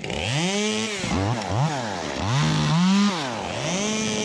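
Ported Echo 25 t (CS-2511T) two-stroke top-handle chainsaw revved up and dropped back several times, with quick blips in the middle.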